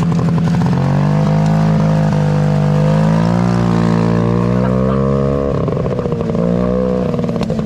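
Snowmobile engine running at a steady speed, its pitch rising and falling slightly. The sound starts and stops abruptly.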